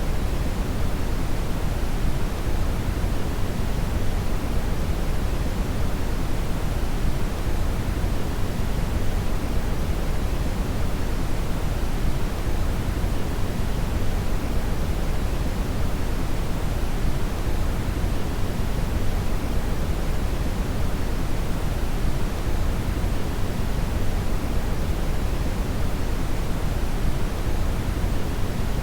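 Steady brown (red) noise: a constant, deep hiss with most of its weight in the low end, without change or events.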